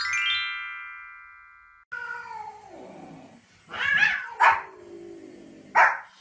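A quick cascade of falling, ringing tones that hold and fade out over the first two seconds. Then a dog vocalises: drawn-out calls that slide down in pitch, broken by three sharp, loud barks about four, four and a half and nearly six seconds in.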